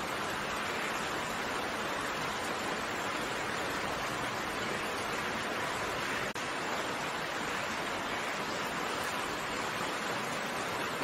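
Steady rain falling, an even hiss with no separate drops standing out, broken only by a momentary dip in level about six seconds in.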